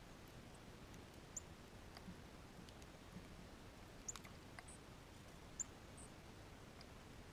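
Near silence with a few faint, sharp, high chip notes of small birds, about four of them, and a few soft clicks.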